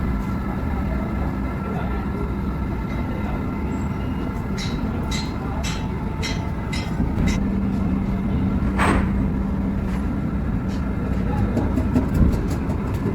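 Factory machinery running with a steady low hum, with a run of sharp metallic clicks and clacks a few seconds in and again near the end, and one short hissing burst about nine seconds in.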